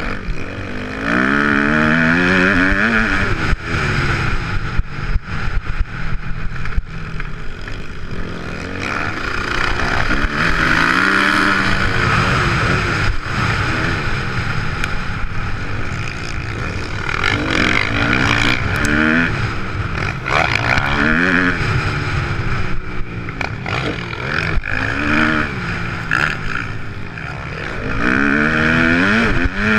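2014 Kawasaki KX250F four-stroke single-cylinder motocross engine running hard, its pitch rising and dropping over and over as the bike accelerates, shifts and backs off around the track.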